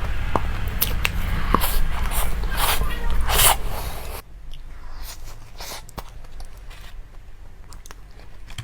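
Eating noises: crunching and biting, with sharp clicks and wet crunches, busy and loud for the first four seconds, then fainter and more sparse after a sudden drop in background noise.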